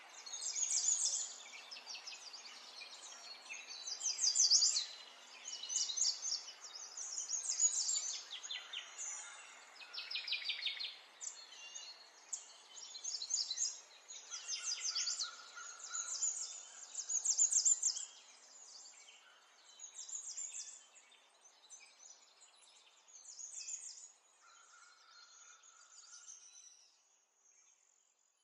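Small birds chirping and trilling in quick, high-pitched bursts every second or two, growing fainter near the end.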